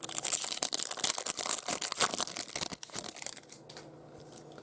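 Foil wrapper of a Topps baseball card pack being torn open and crinkled: a dense crackling for about three and a half seconds, then it dies down to faint handling.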